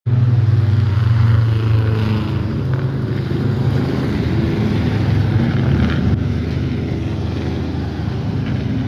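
Vintage Indy-style race car engine running loud at a steady, low pitch, without revving up or passing by.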